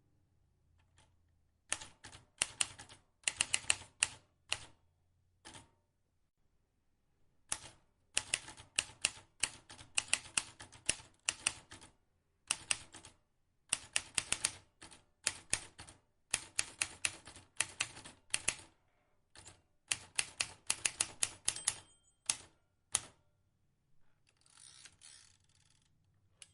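Vintage manual typewriter keys being struck in quick runs of sharp clicks, several a second, with short pauses between runs. A longer, fainter rasping sound follows near the end.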